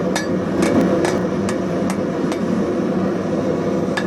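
Light blacksmith's hammer tapping hot 16 mm square steel bar to flatten it. About seven quick blows, then a pause of about a second and a half, and the blows start again near the end, over a steady low background noise.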